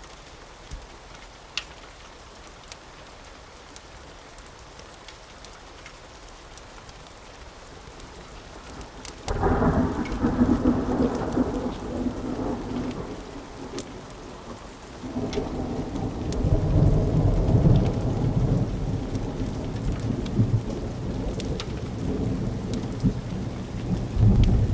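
Steady rain with scattered light ticks. Thunder breaks in suddenly about nine seconds in and dies away, then a second, longer roll of thunder builds from about fifteen seconds on.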